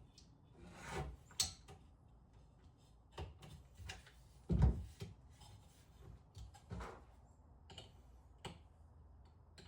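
Scattered knocks and clunks, as of things being handled and set down in a small room, the loudest about halfway through.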